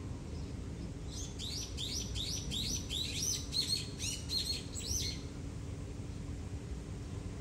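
A bird calling a rapid series of short, high chirps, about three or four a second, for about four seconds, over steady low background noise.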